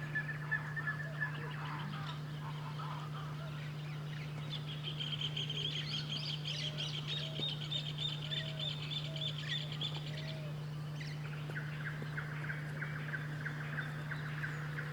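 Wild birds calling: a fast, even series of high notes runs for about six seconds, followed by a lower, similar rattling series for about four seconds. A steady low hum lies underneath.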